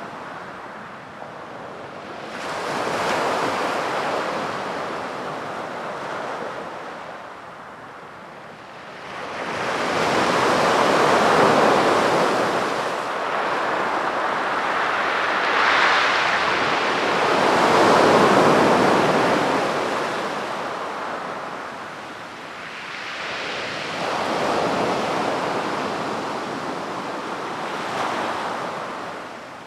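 Sea waves breaking and washing up a beach, swelling and falling away every several seconds. The biggest surge runs from about ten to twenty seconds in.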